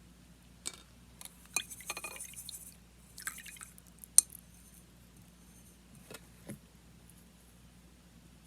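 Small handling sounds of watercolour painting supplies: scattered clicks, clinks and rustles. The loudest is a single sharp click about four seconds in, followed by a couple of light taps.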